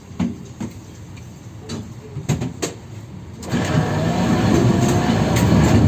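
Tatra-type 71-608KM tram running, heard from inside the car: several sharp knocks of the wheels over rail joints, then about three and a half seconds in a much louder, steady rumble and rattle of the car on track that the uploader calls the most worn in the city.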